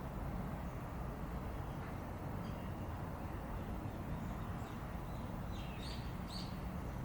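Steady low outdoor rumble, with a few short, faint bird chirps about six seconds in.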